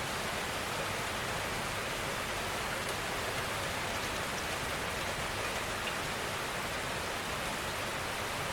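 Steady rainfall, an even hiss of many drops on a surface with faint individual drop ticks here and there.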